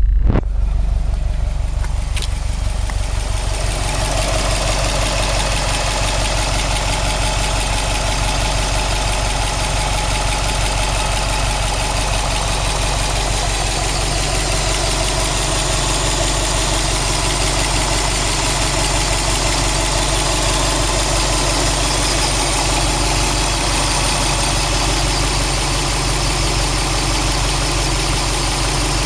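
Subaru WRX STI's turbocharged flat-four engine, a freshly replaced unit warm at about 85 °C oil temperature, idling steadily with a fast, even knocking in its sound, the knock the owner is questioning on the new engine.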